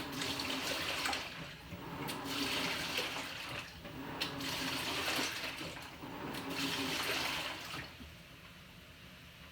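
Panasonic NA-FA100H9 top-loading washing machine in its wash: water churning in the drum as the pulsator agitates, surging about every two seconds over a low motor hum and easing off near the end.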